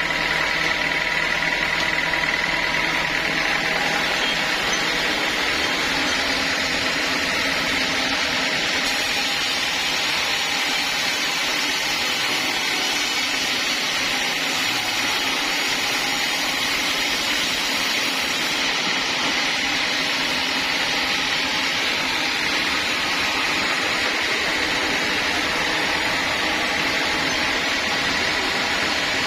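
Sawmill saw running steadily with a constant whine, joined by a brighter hiss from about nine to eighteen seconds in.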